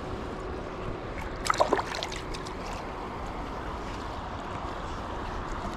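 Steady rush of water pouring through a spillway creek. About a second and a half in, a brief burst of clicks with a short squeak sounds over it.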